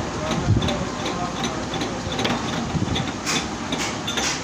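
Steady running noise of workshop machinery, with a few light clicks.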